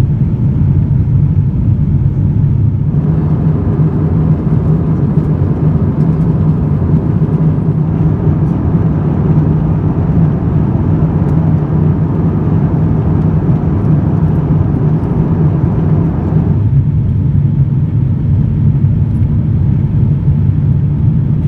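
Steady in-flight cabin noise of an Airbus A350-900 airliner: a low rumble of engine and airflow. From about three seconds in until near the end, a broader hiss rides over the rumble.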